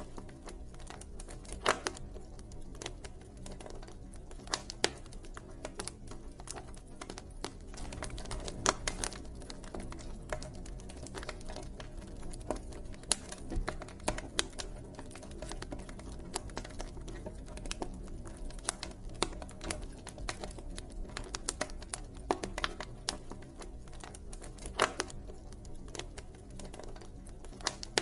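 Wood fire crackling: irregular sharp pops and snaps, a few of them louder, over a low steady rumble of burning.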